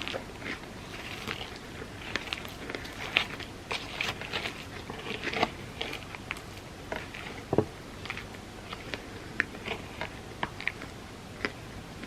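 Close-miked eating of a Biscoff cookie-butter ice cream sundae: chewing and biting, a steady run of short crunches and wet mouth clicks.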